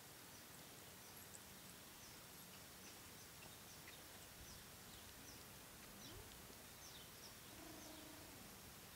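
Near silence: faint outdoor background hiss with scattered short, high chirps from small birds.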